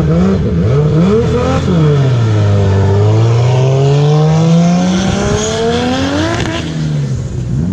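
Nissan Z car's exhaust being revved: a few quick blips in the first second and a half, then a long rev that dips and climbs slowly to a high, held note before dropping back near the end.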